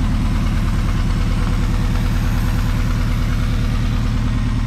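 Pontiac Fiero's 2.5-litre Iron Duke four-cylinder engine idling steadily with an even low pulse.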